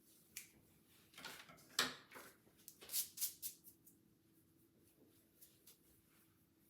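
Hair-cutting scissors snipping hair: a quick run of short, crisp snips in the first four seconds or so.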